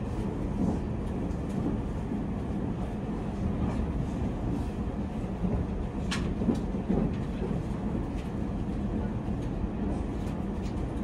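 Spacia X electric train heard from inside the passenger car while running: a steady low rumble of wheels on rails. There is a sharp click about six seconds in.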